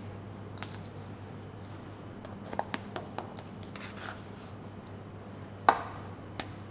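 Scattered sharp knocks and clicks of hand food preparation in a kitchen, a small cluster a few seconds in and one louder knock near the end, over a low steady hum.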